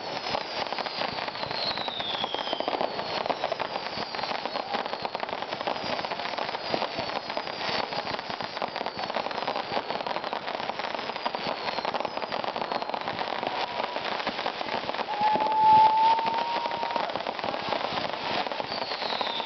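Fireworks display: a dense, continuous crackle of popping stars, with several faint falling whistles. A loud steady whistle sounds for about two seconds roughly three-quarters of the way in.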